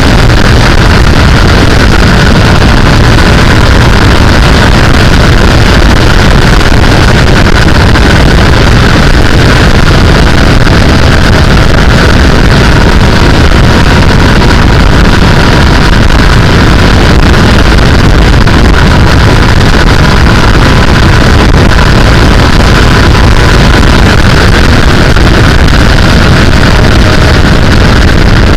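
Sportbike riding at steady speed: heavy wind rushing over the microphone with the motorcycle's engine running underneath at fairly even revs.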